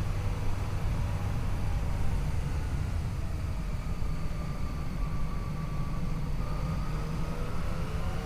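Yamaha FJ-09's three-cylinder engine running under way, its note faint under heavy low wind rush, rising slightly in pitch near the end as the bike speeds up.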